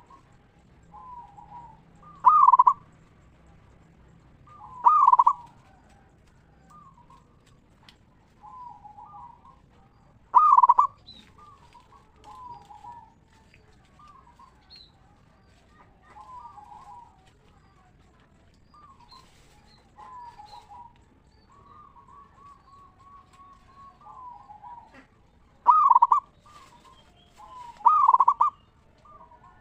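Zebra dove (perkutut) cooing: five loud, ringing coo phrases spread through, with many softer coos in between.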